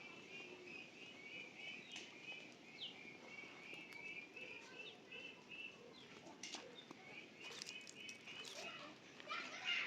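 A small bird chirping over and over, about three short high chirps a second, pausing briefly in the middle, with a few faint knocks.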